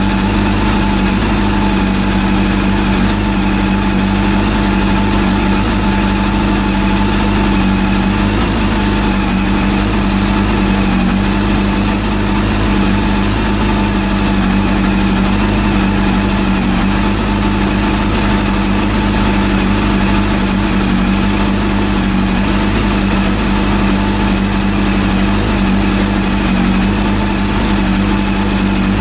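Rebuilt Honda CB400 four-cylinder engine idling steadily, with an even low tone that holds without revving.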